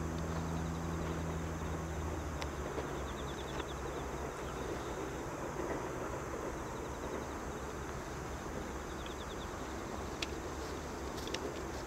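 Low rumble of an electric train, with a steady hum that drops away about a second and a half in. Insects chirp in short trills twice.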